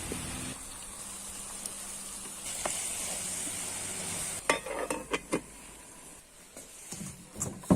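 Food sizzling in a hot pan, a steady hiss that stops about four and a half seconds in, followed by a series of sharp clinks and knocks of a utensil against the pan.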